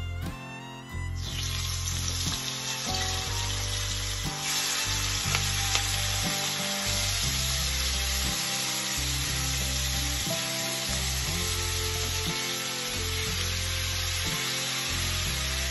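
Whole shell-on tiger prawns sizzling and spitting as they go into hot oil in a wok and are stirred with a wooden spoon. The sizzle starts about a second in and gets louder about four seconds in, then holds steady.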